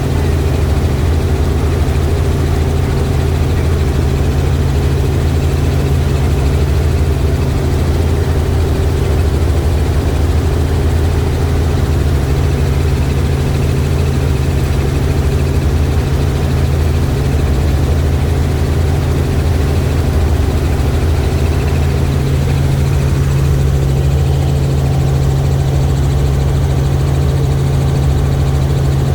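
Helicopter engine and rotor drone, steady and loud, with its low hum growing stronger near the end.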